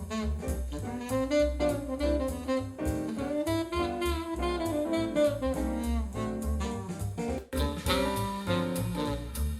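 A jazz track with a saxophone lead over bass and drums, played through 16 cm two-way component car speakers and recorded in the car. There is a sharp brief break about three quarters of the way in, after which the sound is brighter.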